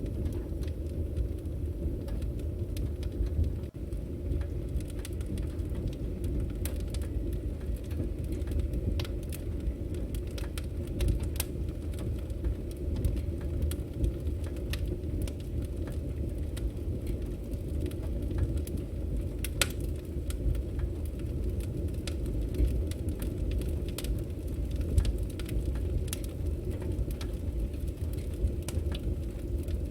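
Wood fire burning: a steady low rumble of flames with scattered sharp crackles and pops from the burning firewood.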